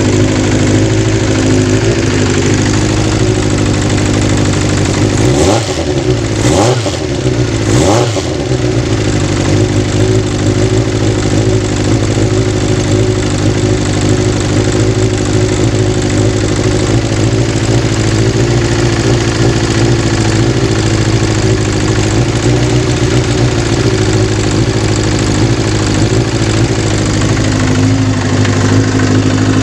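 Kawasaki GPz 400 motorcycle engine idling steadily, blipped three times in quick succession about five to eight seconds in, then settling back to idle.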